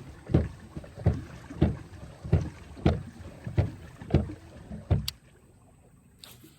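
Paddle boat being worked backwards, its paddles striking the water in regular strokes about every two-thirds of a second. The strokes stop about five seconds in, followed by a single click.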